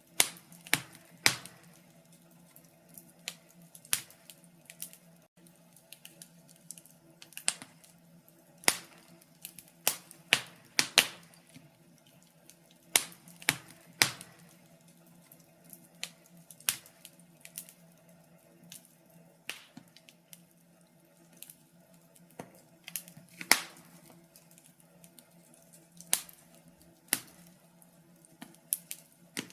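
Wood fire burning in a fireplace, crackling and popping in sharp irregular snaps, roughly one or two a second.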